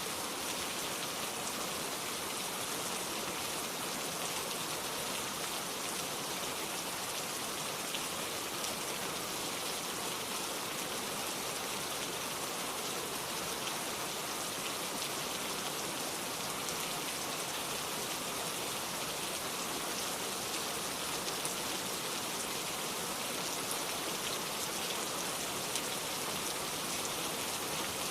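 Steady rainfall, drops pattering on surfaces in a continuous even hiss.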